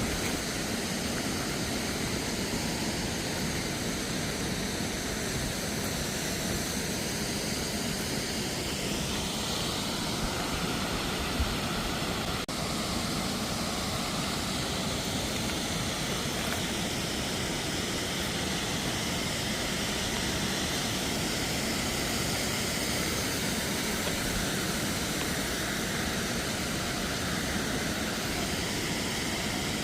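Steady rushing road and engine noise of a moving car, heard from inside the cabin, with a single faint knock about eleven seconds in.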